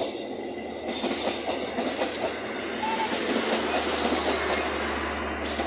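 Train passing close by, its wheels running over the rails with a clatter and high metallic squealing that comes and goes.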